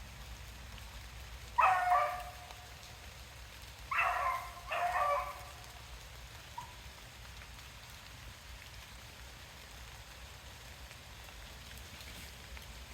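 Rabbit hounds baying three times, once about two seconds in and twice in quick succession around four to five seconds, while running a rabbit over steady rain.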